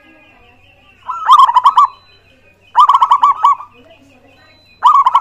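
Zebra dove (perkutut) singing: three loud calls, each a quick run of cooing notes lasting under a second, about two seconds apart.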